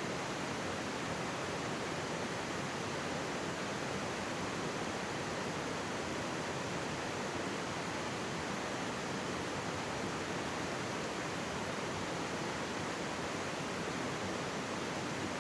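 Mountain stream running right beside the microphone, a steady, even rush of water.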